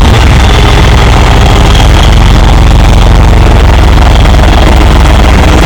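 A vehicle engine running steadily, very loud and close, with most of its sound deep and low.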